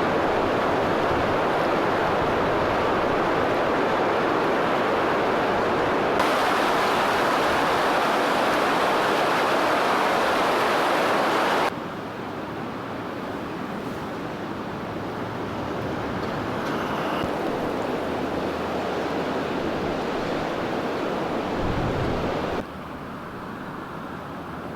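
Steady outdoor rushing noise, like wind or moving water. It changes character abruptly three times: brighter about six seconds in, quieter about twelve seconds in, and quieter again near the end.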